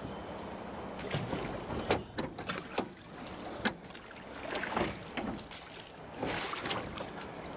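Water splashing and sloshing around a small boat as it is paddled through floodwater, with uneven strokes roughly once a second.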